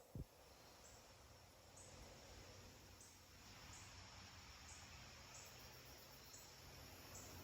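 Faint forest ambience: a soft steady hiss with an insect's short high chirp repeating about once a second, and one brief low thump just after the start.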